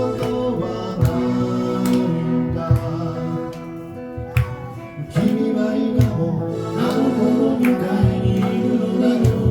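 Live band playing a song: a passage led by guitar over bass and drum hits, falling between sung lines.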